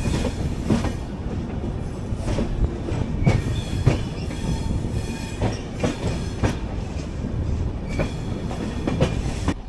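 Express passenger train running at speed: a steady rumble of wheels on track, with sharp, irregular clacks as the wheels cross rail joints and points, and a faint thin wheel squeal now and then.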